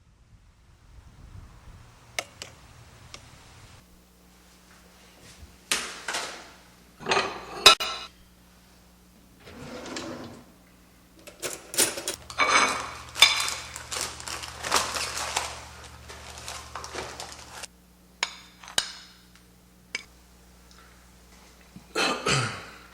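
Irregular clinks, knocks and short scrapes, like dishes and cutlery being handled, over a faint steady hum.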